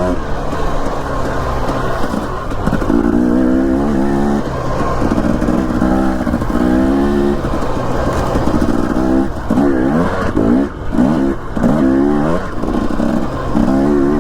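Dirt bike engine running under throttle on a trail ride, its pitch rising again and again as it accelerates. The rises are longer in the first half and come in short, quick bursts with dips in between in the second half.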